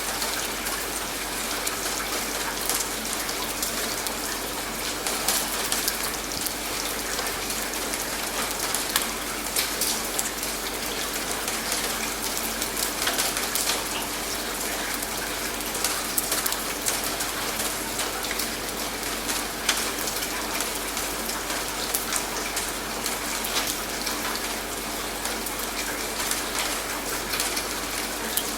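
Steady rain: an even hiss with a dense patter of drops hitting a surface.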